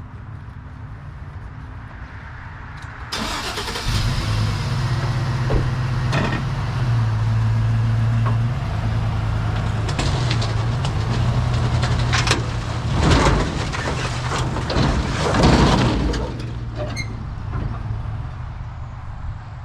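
A vehicle engine running steadily, then much louder from about three seconds in, its pitch rising and falling, with bursts of rattling and scraping noise partway through.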